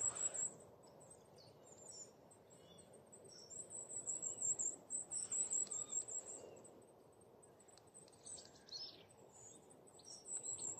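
Long-tailed tits and goldcrests calling in a small mixed flock: a string of thin, very high-pitched notes, busiest about four to seven seconds in.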